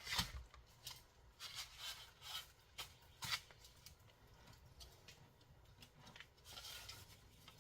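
Faint scattered rustling and a few sharp clicks from hands working food and a packet in a pan, with the sharpest sounds near the start and about three seconds in.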